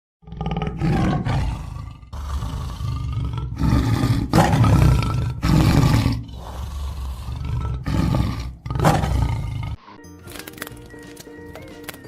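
A big cat roaring repeatedly: a series of deep, loud calls, about half a dozen, which cut off near the end.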